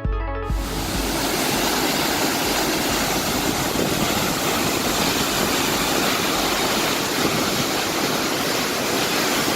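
Waterfall: a loud, steady rush of falling water, cutting in about half a second in after a snatch of music.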